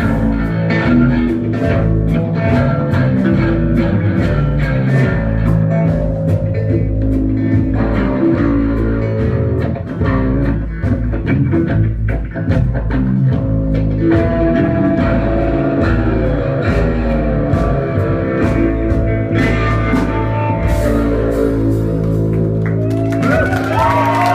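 Live band playing an instrumental passage of a country-rock song: guitar over bass and drums, with no singing. Near the end, wavering high tones come in over the band.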